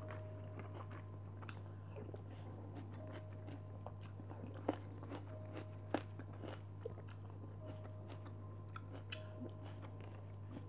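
Quiet eating sounds: a person chewing food with scattered small mouth clicks and a couple of sharper clicks near the middle, over a steady low hum.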